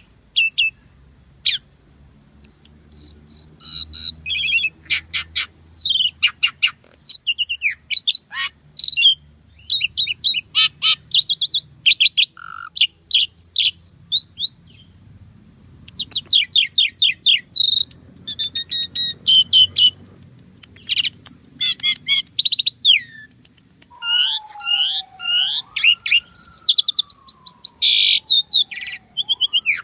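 A pied starling (jalak suren) singing vigorously: a fast, varied run of chirps, trills and squeaky notes. Near the end comes a slow whistle that glides down and back up.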